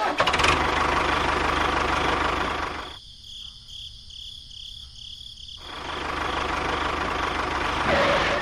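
A small motor running steadily, going thinner and quieter for a couple of seconds in the middle before returning to full.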